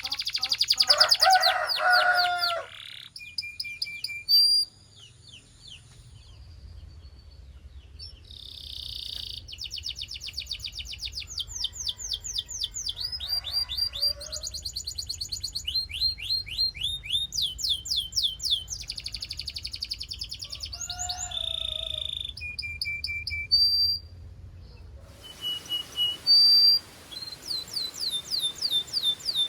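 Canary song: high, rapid trills of repeated sweeping notes, in phrases broken by short pauses, with a few lower warbling notes between them.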